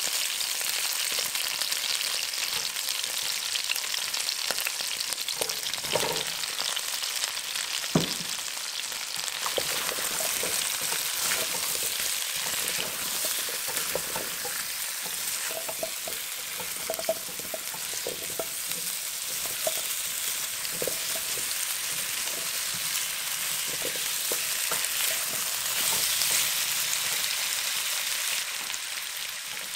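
Chicken drumsticks, garlic and potato chunks sizzling in hot oil in a non-stick frying pan, with a spatula stirring and tossing them. A couple of sharp knocks come about six and eight seconds in.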